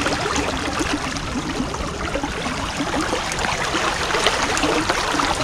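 Rain falling steadily, a dense hiss of drops with many small ticks of individual drops landing.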